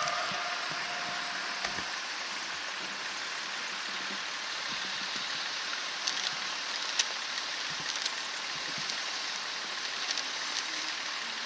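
A steady, even hiss of background noise with a few faint ticks, and no engine or train sound standing out.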